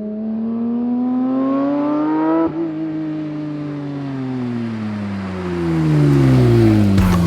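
Porsche 992 GT3 RS's naturally aspirated flat-six, through a Sharkwerks aftermarket exhaust, accelerating with rising pitch. There is a quick gear change about two and a half seconds in, then the pitch falls away over the last few seconds.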